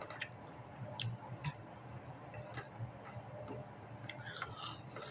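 Someone eating a meal: scattered light clicks, as of a fork on a plate, with faint chewing in between.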